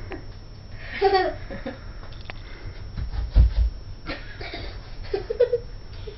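Short bits of a person's voice and laughter, with a dull low thump about three and a half seconds in.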